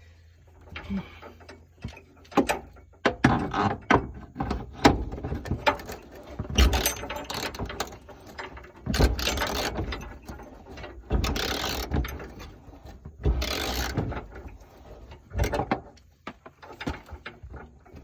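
Hand tools working on metal: irregular bursts of ratchet-like clicking and clanking.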